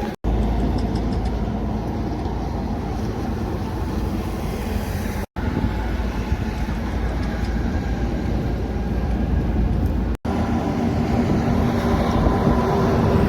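Heavy trucks driving by on a road: a steady low engine and tyre rumble, heard in short clips joined by abrupt cuts about every five seconds.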